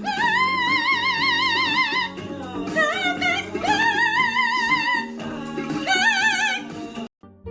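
Operatic singing: a voice holding long high notes with wide, even vibrato in three phrases over instrumental accompaniment, breaking off suddenly near the end.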